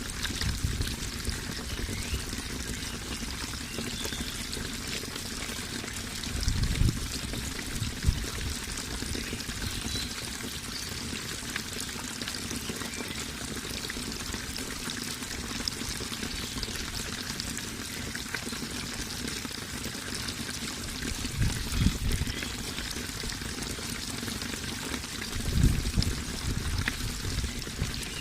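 Running water pouring and splashing steadily in a natural watercourse, with a few brief low rumbles: two about a quarter of the way in, and two more in the last third.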